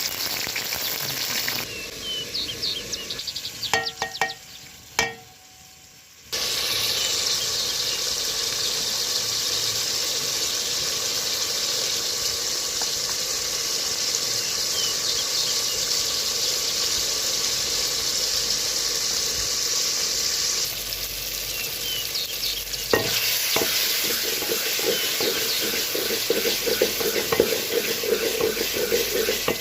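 Food sizzling as it fries in hot oil in a pan, with a few sharp knocks in the first seconds. Near the end it is stirred, a utensil scraping the pan in quick repeated strokes.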